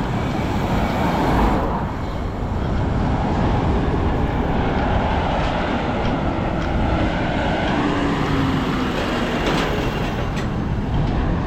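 Steady road rumble and wind noise from travelling along a road, with traffic around.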